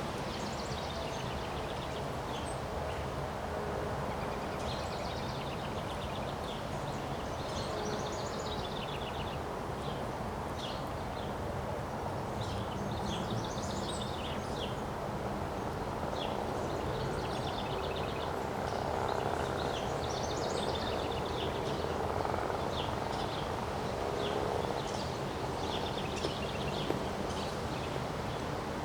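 Steady wind blowing, with birds chirping and trilling again and again over it.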